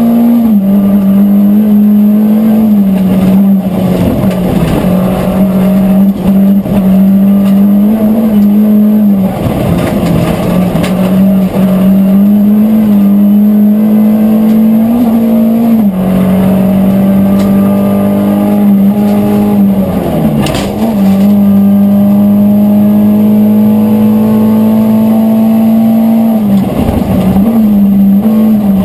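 Volvo 940 Group H rally car's engine held at high revs under hard acceleration, heard from inside the cabin. Its pitch stays nearly level, then dips and steps several times before climbing back.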